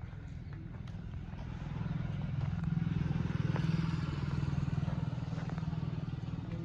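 Farmtrac 60 tractor's diesel engine running steadily, growing louder about two seconds in and easing off slightly near the end.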